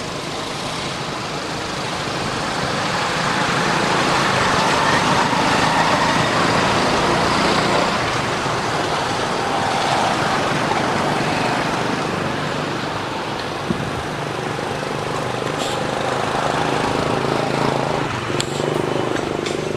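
Road traffic: a motor vehicle's engine and tyre noise swelling as it approaches, holding for several seconds, then slowly fading.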